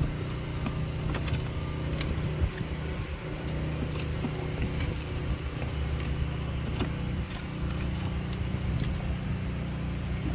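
Steady low engine hum, with scattered light clicks and knocks over it.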